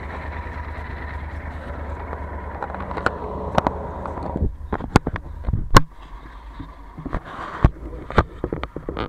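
Yamaha Super Ténéré 1200 parallel-twin engine idling with a steady low hum under road hiss. About four and a half seconds in, the hiss drops away and a string of sharp knocks and clicks follows from the camera being handled against the bike, the loudest a little under six seconds in.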